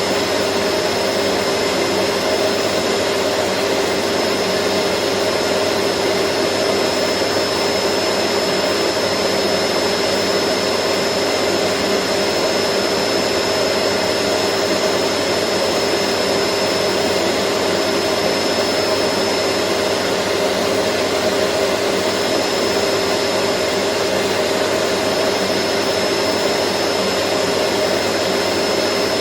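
Vacuum cleaner running steadily: an even rushing of air with a constant motor whine.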